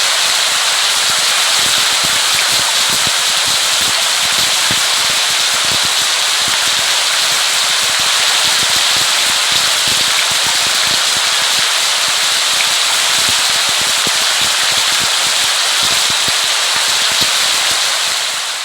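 Steady, heavy rain: a dense, even patter of drops, fading out near the end.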